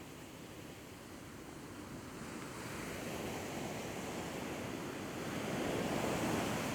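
Sea waves washing onto the shore, one wave slowly building and peaking near the end.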